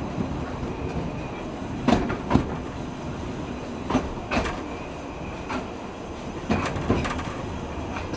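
Narrow-gauge train running along the Corris Railway, heard from aboard: a steady rumble with wheels clicking over the rail joints, mostly in pairs about half a second apart, every couple of seconds.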